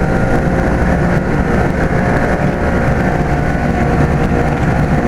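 Comfort Star central air-conditioner condensing unit running, a steady hum of compressor and fan with several steady whining tones. The unit appears to be sick.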